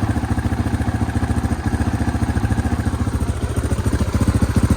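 KTM 690 Enduro's single-cylinder four-stroke engine idling with an even, rapid thump of firing pulses, just after a cold start from long storage. The engine picks up slightly near the end.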